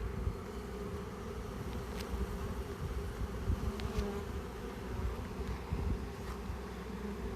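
A swarm of honeybees buzzing steadily in and around a hive box close to the microphone, many still in flight while others crawl in, with the sound of bees humming inside the box.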